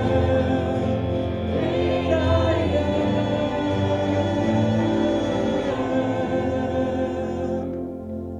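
A contemporary worship song, with a group of voices singing over instrumental backing, tapering off near the end.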